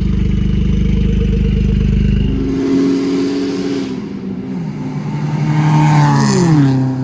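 Car engines: a deep, steady idle rumble that cuts off about two and a half seconds in. Then a car drives past, its engine note rising in loudness and dropping in pitch as it goes by, near the end.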